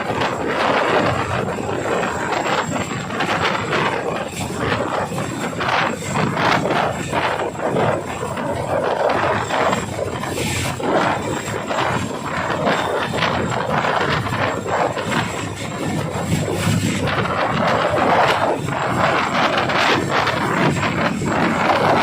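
Chinook tandem-rotor helicopter's rotors and engines running, a loud, steady noise with irregular rough gusts throughout.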